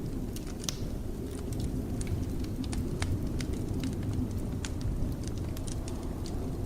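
Wood fire crackling with irregular sharp pops and ticks, over a steady low rumble of blizzard wind.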